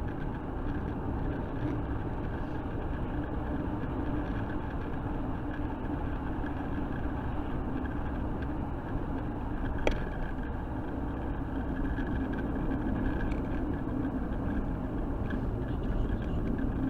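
Steady road and engine noise of a car being driven, heard from inside the cabin, with a single sharp click about ten seconds in.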